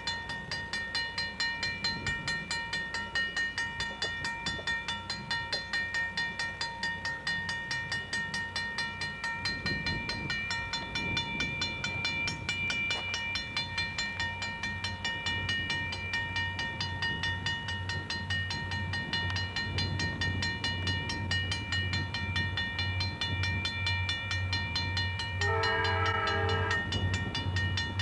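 Approaching diesel freight locomotive with a low rumble that builds, under a steady high buzzing hum. Near the end the locomotive's horn sounds a multi-tone blast, which stops briefly and starts again.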